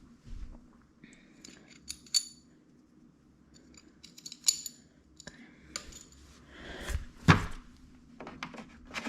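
Small metal tools and engine parts clinking and knocking as they are handled during hand work on a motorcycle engine: scattered light clicks with a bright metallic ring, and one louder knock near the end.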